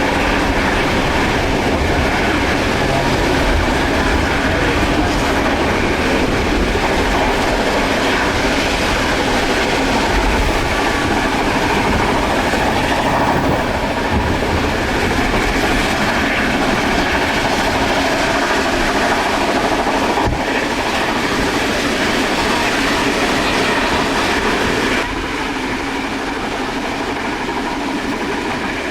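Train carriage in motion on the rails, with a steady rumble and wheels clattering over the track joints. It gets a little quieter near the end.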